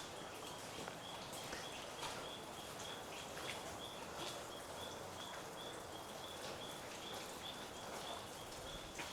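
A small animal's short, high-pitched chirp, repeated steadily about twice a second over a low, even hiss, with a few faint clicks.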